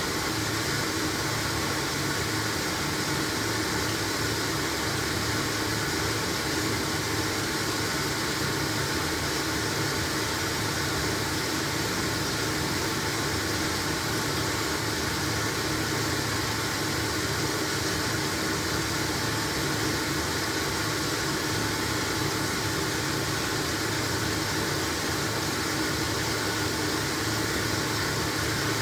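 LG washing machine running a wash cycle on a load of blankets: a steady, even whir and hiss with a faint hum.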